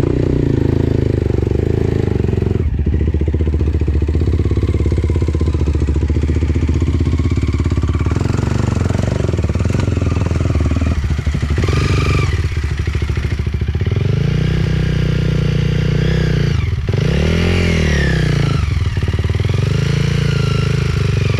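Enduro dirt bike engine running hard, with the revs held steady at first and then rising and falling several times, including a sharp rev up and back down near the end.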